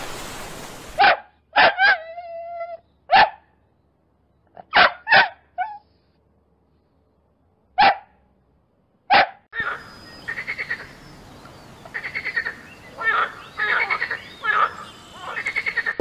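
Dog barking: sharp single and paired barks with gaps between them over the first nine seconds. Then comes a steady hiss with a run of quicker, softer pulses.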